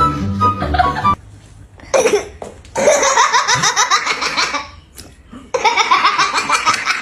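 Two long bouts of loud, rapid laughter, with a short burst before them, after a second of music.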